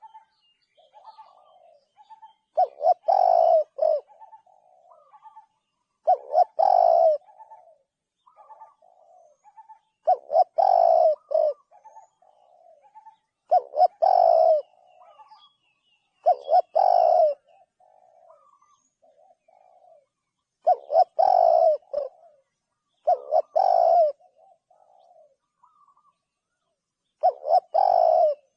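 Spotted dove cooing: about eight phrases, one every three to four seconds, each a few loud coos followed by softer trailing notes.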